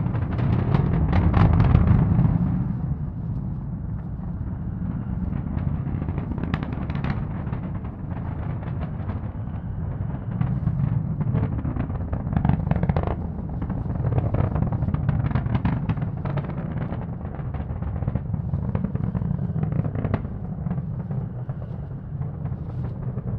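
Falcon 9 first stage's nine Merlin engines during ascent: a continuous deep roar full of irregular sharp crackles, loudest in the first couple of seconds.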